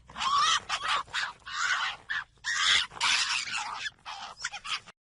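Fox calling: a run of harsh, hoarse cries in quick succession, the last few shorter, like yelps.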